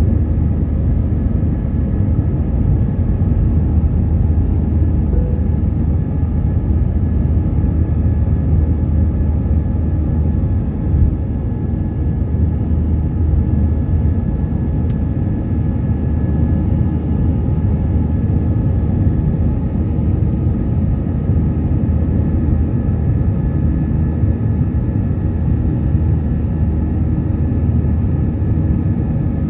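Steady cabin noise inside an Airbus A320 in flight: a constant low rumble of engines and airflow, with a faint steady high tone.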